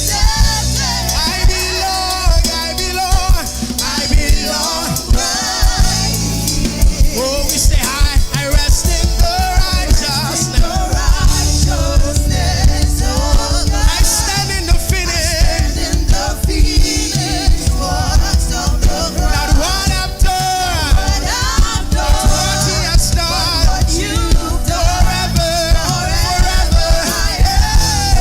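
Live gospel worship music: a band playing a steady beat with drums and bass, and singing over it.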